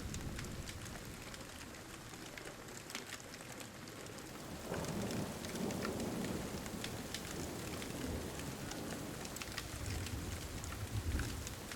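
Steady pouring rain with scattered sharp ticks and crackles, and a low rumble of thunder that builds about five seconds in and swells again near the end.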